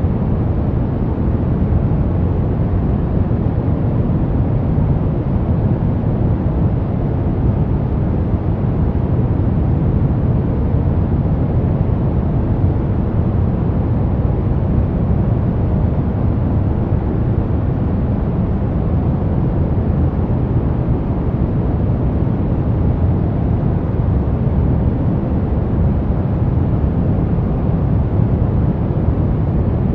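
Brown noise: a steady, even rumbling hiss with most of its weight in the low end and little treble, unchanging throughout.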